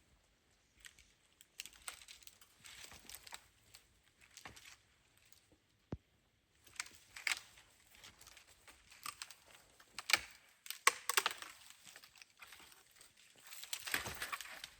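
Irregular crunching and crinkling handling noises, with a few sharp snaps and clicks, loudest about ten and eleven seconds in.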